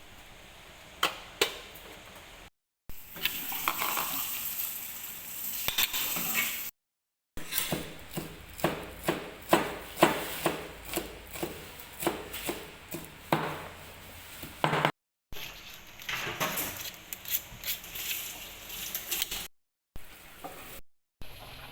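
Kitchen cooking sounds. In the middle there is a run of sharp knocks, about two a second, for several seconds, like chopping on a board. Before and after it are stretches of hiss, like sizzling, and the whole is broken by several short cuts to silence.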